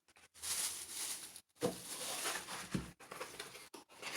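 Rustling of plastic packaging and handling of small plastic tumblers and their bagged straws, in several short bursts.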